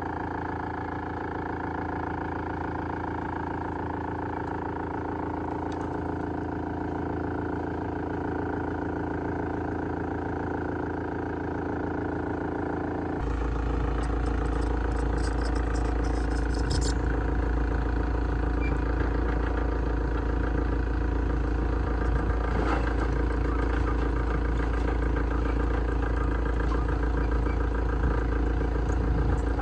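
Heavy-duty wood shredder running steadily. About 13 seconds in, a deeper low rumble sets in suddenly and the sound gets louder, with a brief spell of sharp clattering a few seconds later.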